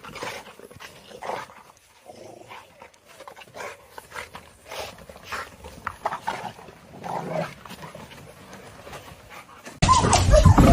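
A dog panting, with short irregular sounds and a few brief pitched whimpers. About a second before the end, a much louder jumbled sound cuts in suddenly.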